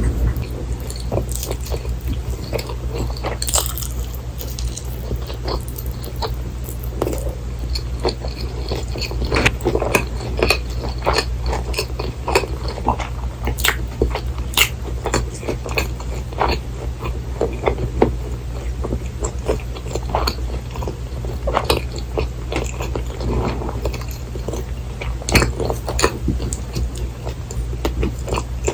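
Close-miked biting and chewing of fried cheese pork cutlet and rice, with many short crisp crackles and moist mouth sounds scattered throughout, over a steady low hum.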